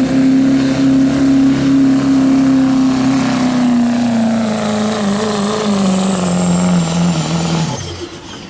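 Diesel pickup engine at full throttle pulling a weight-transfer sled, its note slowly falling in pitch as the sled loads it down, with a faint high whine above. Near the end the engine drops off suddenly as the throttle is let off and the pull ends.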